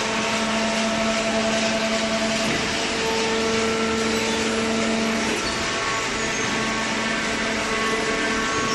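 Hydraulic cardboard baler running: a steady motor-and-pump hum over a noisy machine rush, its held tones shifting pitch a couple of times as the load changes.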